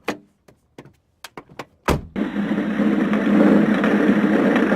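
A few sharp clicks and knocks, then a truck door slams about two seconds in and the truck's engine starts running steadily.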